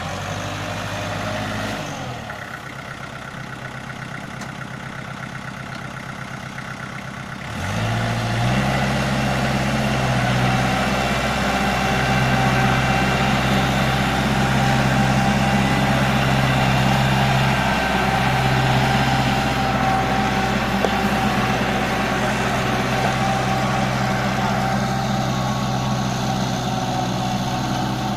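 Kubota L4400 tractor's diesel engine running at low speed, then speeding up about eight seconds in and running steadily at the higher speed while the tractor works a disc plow.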